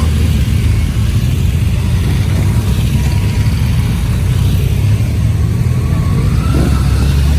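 Motorcycle riding along, its engine running steadily under a low rumble with road and wind noise.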